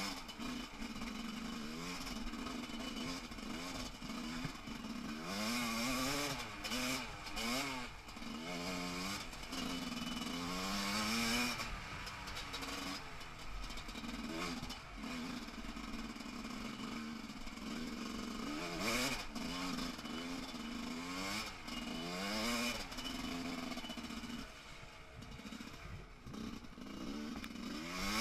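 A 300cc two-stroke enduro motorcycle engine, its revs rising and falling over and over as the throttle is worked on a rough trail, with clattering knocks from the bike over the ground.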